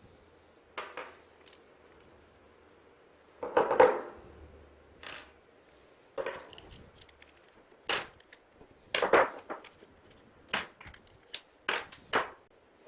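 Hand tools and small metal parts of a motorcycle front brake caliper knocking, clinking and scraping during a strip-down, about ten short separate sounds, loudest about four and nine seconds in.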